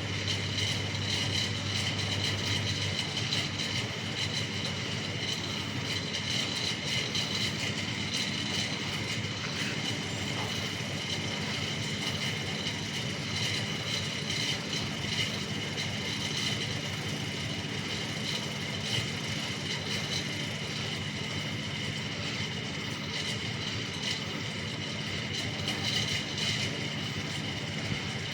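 Bauknecht WAS 1400 washing machine running with a steady mechanical hum and whine. A low hum cuts out about three seconds in.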